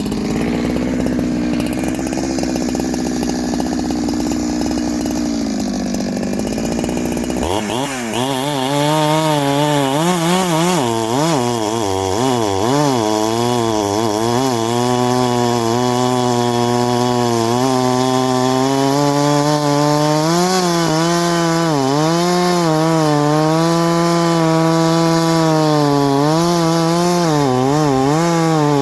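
Ported Farmertec G372XT two-stroke chainsaw running hard while cutting wood. Its engine note changes suddenly about a third of the way in, then repeatedly sags and recovers as the chain bites under load.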